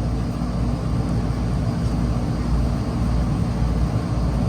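Outdoor air-conditioner condensing units running: a steady low compressor hum with the whoosh of the condenser fans.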